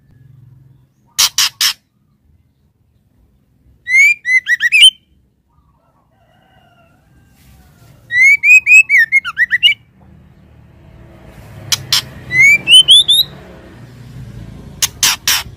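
Female white-rumped shama calling: short runs of sharp clicking ticks alternating with quick phrases of rising whistled notes. A faint low rumble builds up underneath toward the end.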